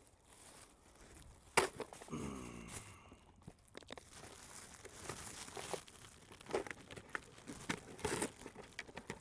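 A bag crinkling and rustling as it is handled and hung on a branch, with scattered small clicks and one sharp snap about a second and a half in.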